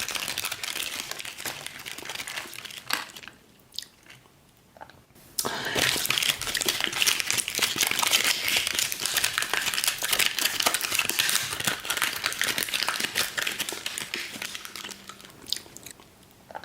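Candy wrapper crinkling and crumpling as it is handled in the hands. The crackling stops for about two seconds a few seconds in, then goes on busily.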